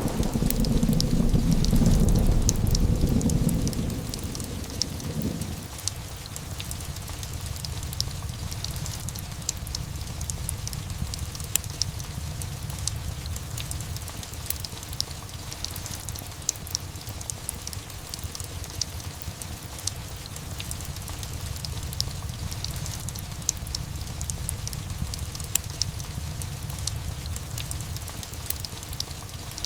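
Steady rain with a fireplace crackling in irregular small pops throughout. A low rumble of thunder dies away over the first few seconds.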